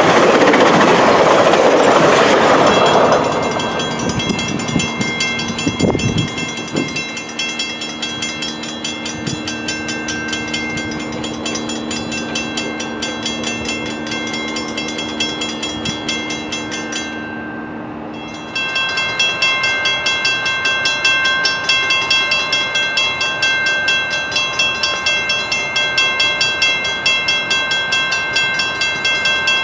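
A bilevel commuter train's passenger cars rush past close by, wheel and rail noise fading over the first three seconds. Grade-crossing warning bells then ring on. After a sudden jump in level, a louder crossing bell dings repeatedly, a higher, brighter ringing.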